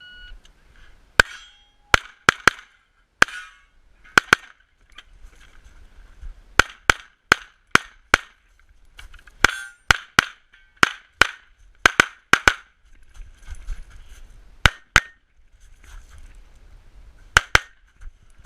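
Pistol fired in a USPSA stage run: about two dozen sharp shots, mostly in quick pairs and short strings, with pauses of a second or two between groups as the shooter moves between targets. A short beep sounds right at the start.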